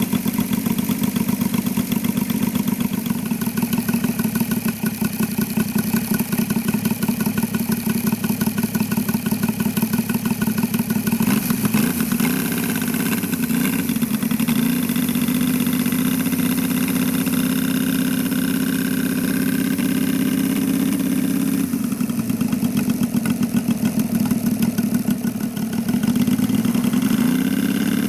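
SAITO three-cylinder gasoline radial engine of a radio-controlled Zero Type 52 model plane running in flight, its pitch shifting as the plane changes throttle or passes, about twelve seconds in and again near the end.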